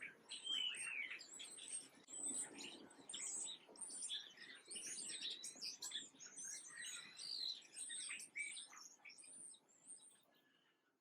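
Many small birds chirping and calling at once, with dense overlapping short chirps and whistles, fading out near the end.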